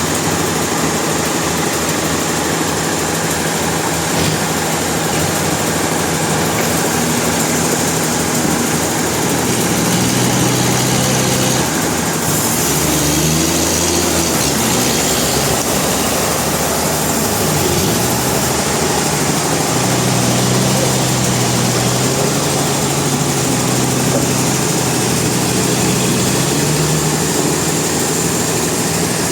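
Sawmill machinery running: a heavy engine's steady drone whose pitch shifts up and down several times, over a constant mechanical hiss and clatter.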